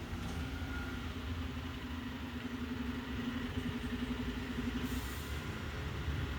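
Garbage truck's diesel engine running with a steady low rumble and a hum that pulses briefly near the middle.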